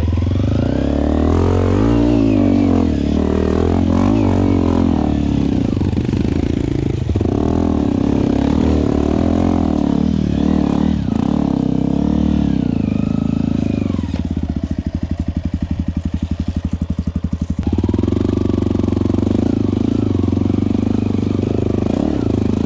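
Yamaha WR155R dirt bike's single-cylinder four-stroke engine being ridden, its pitch rising and falling with the throttle. About two thirds of the way through it drops to a softer, even off-throttle putter for a few seconds, then picks up again.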